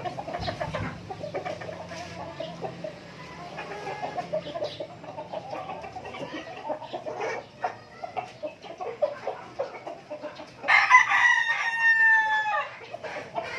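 Heritage chickens clucking, then a rooster crows once near the end, a loud crow about two seconds long.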